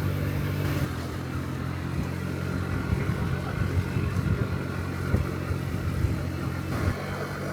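Honda Dio Cesta AF68 50cc scooter's single-cylinder four-stroke engine running steadily under way, heard from the rider's position. Its note shifts slightly about a second in and again near the end.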